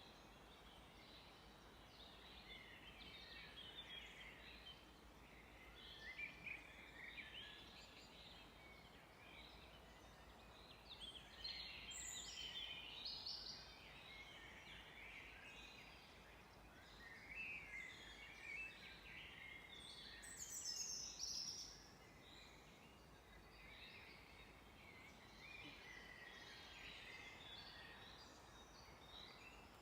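Faint chorus of several songbirds chirping and trilling, calls overlapping throughout, over a soft steady background hiss, with brief louder, higher calls about 12 seconds in and again about 20 seconds in.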